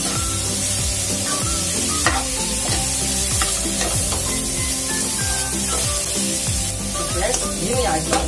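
Cubed watermelon rind sizzling in hot oil in a non-stick kadai while a steel spoon stirs and scrapes it, in repeated strokes.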